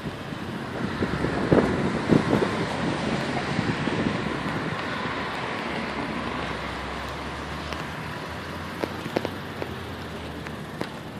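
Street traffic noise, a steady rushing haze, heard from a moving bicycle, with a few sharp knocks about two seconds in.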